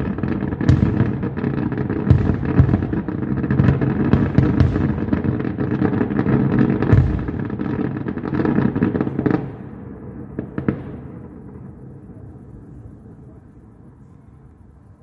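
Aerial fireworks going off in a dense, rapid barrage of bangs and crackles, then thinning to a last few separate bangs about ten seconds in before dying away.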